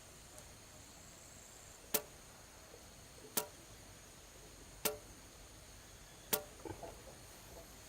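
Four sharp blows of a hand tool striking wood, evenly spaced about a second and a half apart, each with a brief ringing tail.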